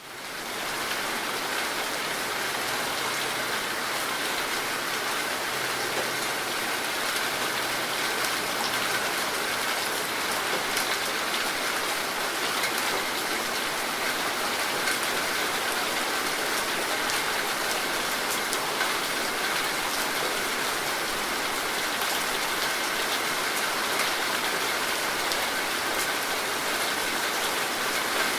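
Steady rain falling on surfaces, a continuous hiss dotted with countless small drop ticks. It swells back in from a brief dip right at the start.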